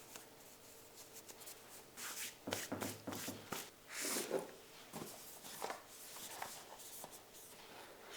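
Hands handling and rubbing small objects on a surface: scattered soft clicks, taps and rustles, busiest in the middle.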